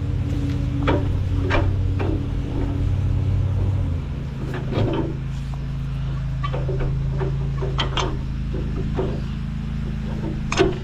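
Allis-Chalmers tractor engine running steadily, its note shifting about four seconds in, with a series of sharp metal clanks and knocks as a three-point hitch link is pinned back on; the loudest clank comes near the end.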